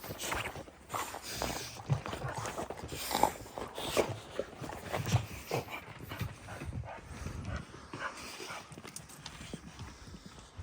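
Dogs moving about close by: a run of irregular short clicks, knocks and scuffles.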